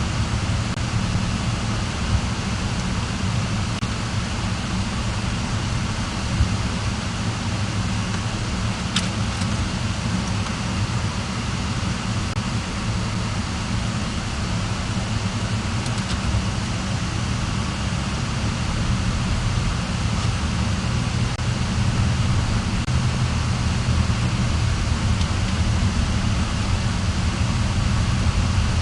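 Car driving along a road: a steady low rumble of engine and tyre noise, with a single faint click about nine seconds in.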